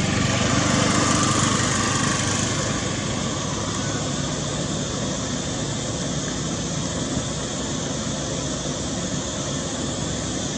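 A small engine running steadily, a little louder in the first few seconds.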